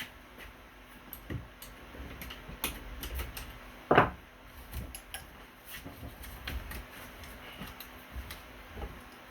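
Handling noise from manual work: irregular light clicks and taps, with one louder knock about four seconds in.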